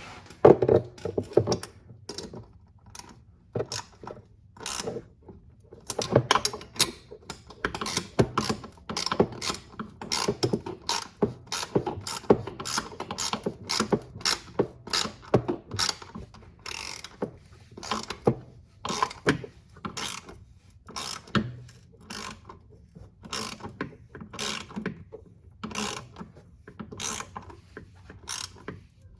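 Ratchet wrench clicking in irregular bursts of short, sharp clicks while the exhaust manifold bolts are tightened.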